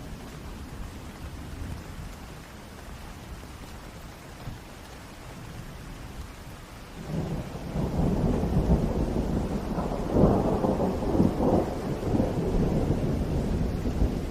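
Steady rain. About halfway through, a long roll of thunder builds and rumbles on, loudest a few seconds later.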